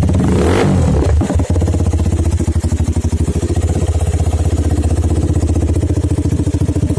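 Benelli Motobi 200 Evo EFI's single-cylinder engine running through an aftermarket Sniper exhaust. It blips the throttle twice in the first second and a half, then settles to a steady, evenly pulsing idle.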